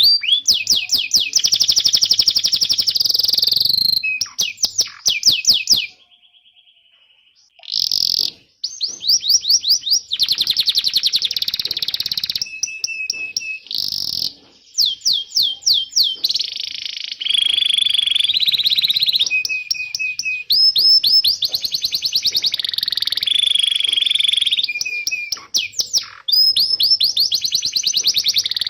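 Domestic canary singing a long, fast song of rapid trills and repeated chirps, with some held whistled notes and a short pause about six seconds in.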